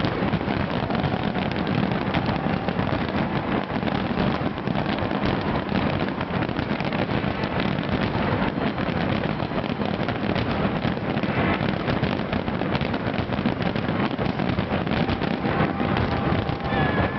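Fireworks display in a dense, continuous barrage of overlapping crackles and bangs.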